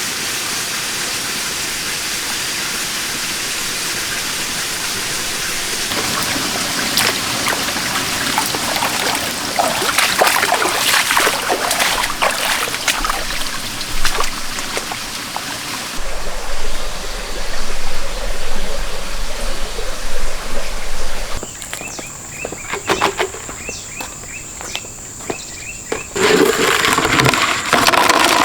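Running and splashing water, in a few short takes that change abruptly, with scattered clicks and splashes through most of it.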